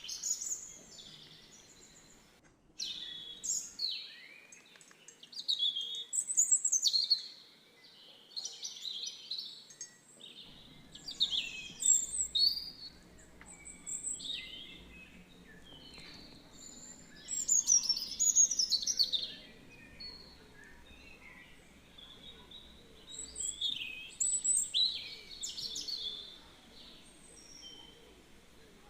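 Small birds chirping and singing in bursts of quick, high notes every few seconds.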